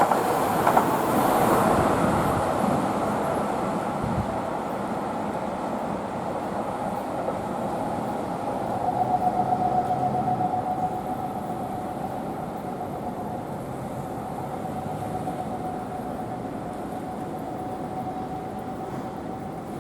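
Seibu 6000 series electric train running by on the rails, loud at first and slowly fading away. About nine seconds in, a steady tone rises out of the fading rumble and holds.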